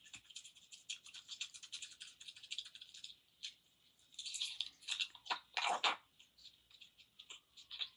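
Close-up chewing: a rapid run of small moist clicks and crunches from a mouth eating food. It pauses briefly in the middle, with a few louder crunches about five to six seconds in.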